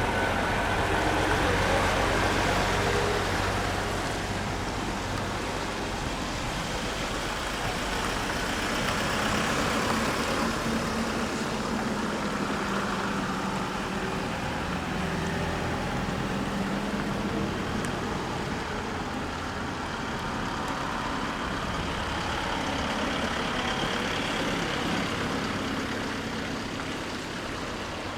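Large trucks' diesel engines running as they pull out and move off. The engine note shifts in pitch over a steady background of traffic noise.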